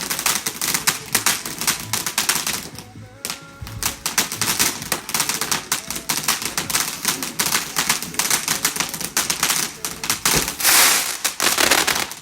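Fireworks display: dense, rapid crackling and popping from many crackle effects and shells, with a short lull about three seconds in and a louder burst near the end.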